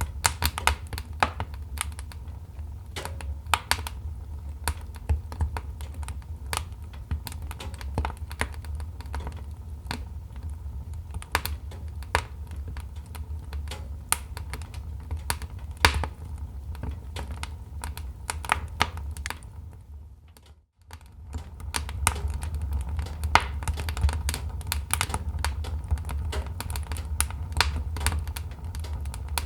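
Wood fire crackling: irregular sharp pops and snaps over a steady low rumble. About twenty seconds in, the sound fades out almost to silence for a moment and comes back, like a loop being joined.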